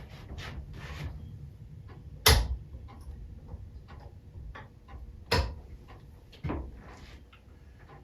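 Small engine parts and tools being handled and fitted during assembly: light clicks and taps throughout, with a sharp knock about two seconds in, another about five seconds in and a softer one shortly after.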